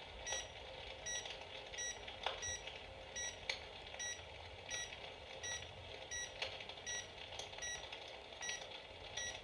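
Electrolux EFP/W-2000S electric fireplace playing its simulated wood-crackling sound: faint, irregular crackles. A short high beep repeats evenly about twice a second throughout.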